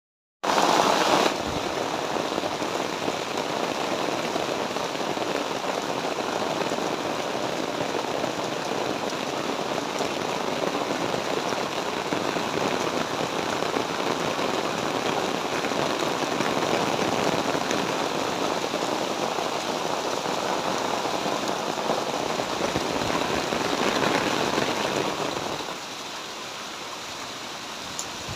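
Heavy rain pouring down steadily, a dense even hiss of water. It drops to a noticeably quieter level near the end.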